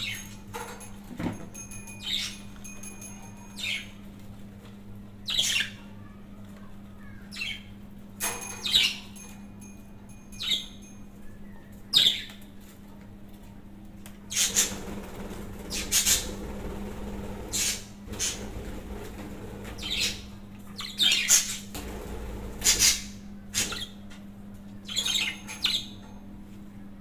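Pet budgerigar chirping and squawking in short, sharp calls about every second or so, over a steady low hum.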